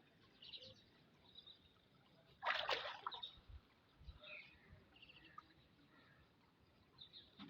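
A short splash of water about two and a half seconds in, against quiet outdoor ambience with faint bird chirps.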